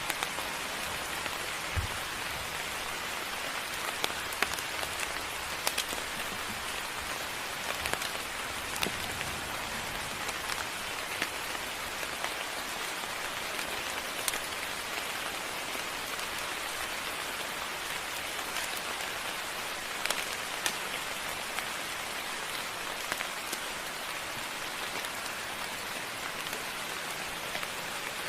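Moderate rain falling steadily, a continuous hiss with scattered sharper drop ticks now and then.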